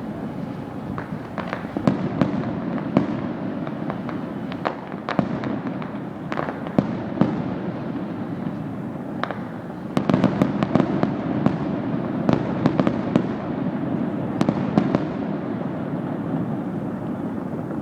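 Fireworks going off: a string of sharp bangs and crackles over a continuous low rumble, with a dense flurry of rapid bangs starting about halfway through.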